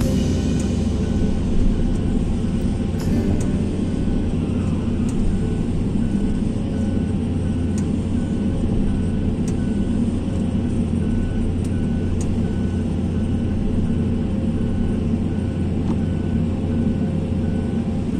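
Amphibious excavator's diesel engine running steadily under load as the machine travels, with its travel alarm beeping at an even pace, about three beeps every two seconds, from about five seconds in.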